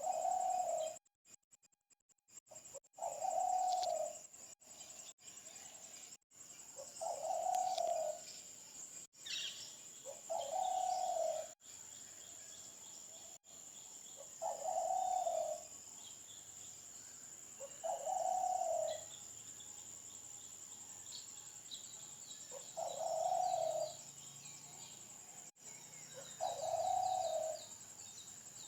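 A bird repeating a low, one-second call about every three to four seconds, eight times, with faint higher chirps from other birds in between.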